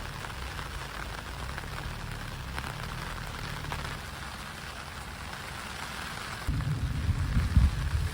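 Steady rain falling. About six and a half seconds in, gusts of wind start buffeting the microphone with a loud, irregular low rumble.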